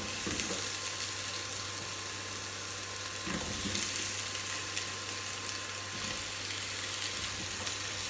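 Sliced potatoes sizzling as they fry in a pot, a steady hiss, with a few soft knocks as more slices go in.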